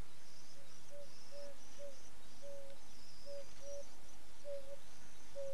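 Bird calling: a run of short, level low notes, about two a second, over faint high-pitched chirping.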